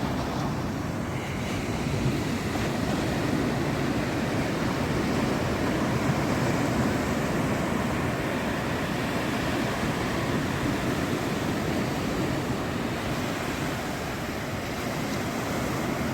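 Ocean surf breaking and washing up a sandy beach: a steady rush of waves that swells a little in the middle and eases again.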